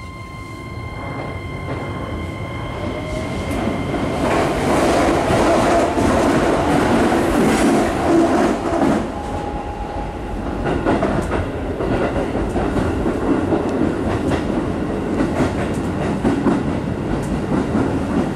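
Interior running sound of a Keisei 3000-series electric commuter train pulling away and gathering speed. A faint rising whine is heard as it accelerates, and the sound grows louder over the first few seconds. It then settles into the steady rumble of wheels on rail, with regular clicks from the rail joints.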